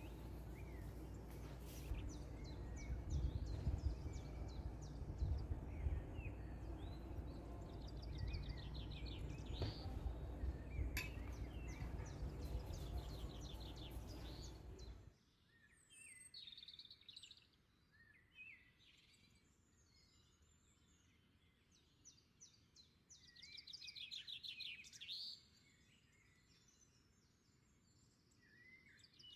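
Small birds chirping and trilling in short repeated phrases. A low steady rumble underneath cuts off suddenly about halfway through, leaving the birdsong on its own.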